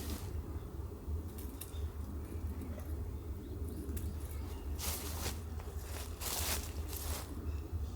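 A few brief rustling crunches, one about five seconds in and two more near the end, over a steady low rumble.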